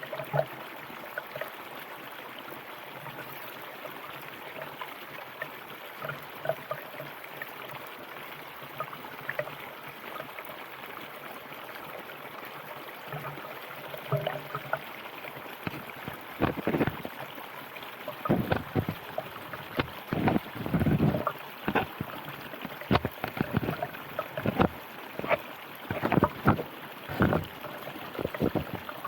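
River water running steadily, with short loud splashes and gurgles that come often from about halfway through.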